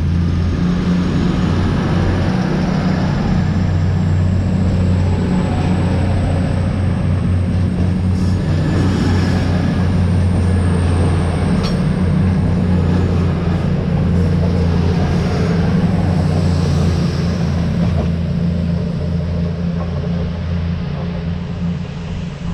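Diesel locomotive-hauled freight train passing close by, its engine drone steady and loud, easing off near the end.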